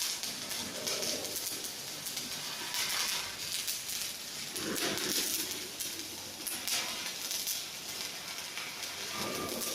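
Electric arc welding crackling and hissing steadily.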